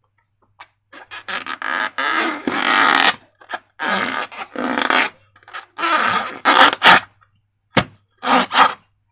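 Slime and balloons being handled and squeezed, giving irregular bursts of wet squelching and scraping.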